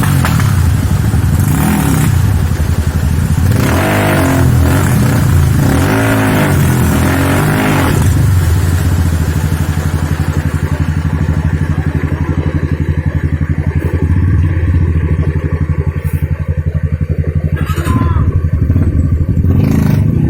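Trail motorcycle engine running under throttle. It revs up and down several times in the first half, then holds a steadier note.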